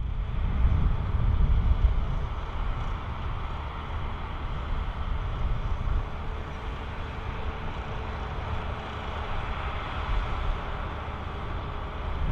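John Deere 7230R tractor running with an AVR Spirit 9200 potato harvester working behind it: a steady low engine rumble with an even rush of machinery noise above it, louder for the first couple of seconds.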